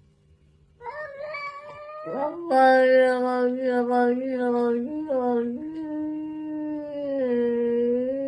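A cat giving one long, drawn-out yowl that starts about a second in, rises in pitch, then holds nearly level with small wavers.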